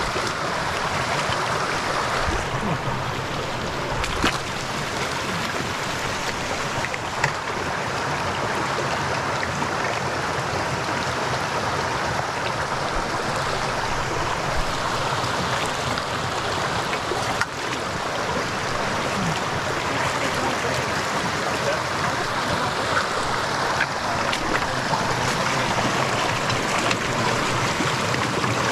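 Steady rush of flowing stream water, with a few brief knocks here and there.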